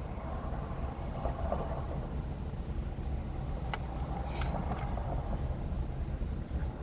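A steady low rumble, with a few short clicks and light rustles around the middle.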